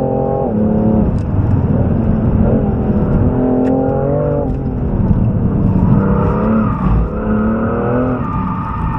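Four-door performance car's engine pulling hard, heard from inside the car: the revs climb, then drop sharply, about four times.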